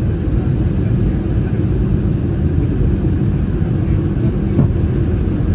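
Airbus A319 cabin noise: a steady low rumble from its CFM56 engines and the airflow around the fuselage.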